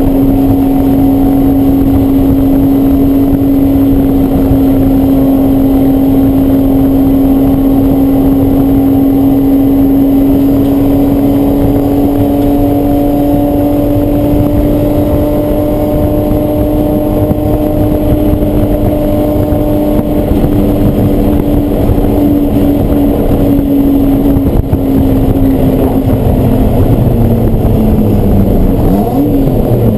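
Race car engine running hard at high, steady revs, its pitch creeping slowly upward. Near the end the pitch falls and wavers as the car slows.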